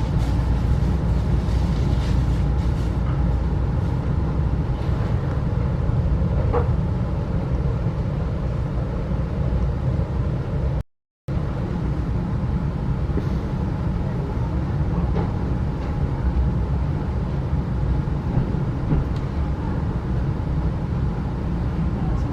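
Steady low rumble of a 35-series passenger coach rolling on the rails, heard from inside the carriage. A short faint squeal comes about a third of the way in, and the sound cuts out completely for a moment about halfway through.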